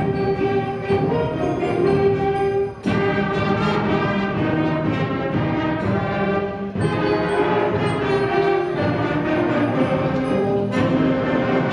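Middle school concert band playing loudly with brass to the fore: sustained full chords in phrases that break and restart about every four seconds.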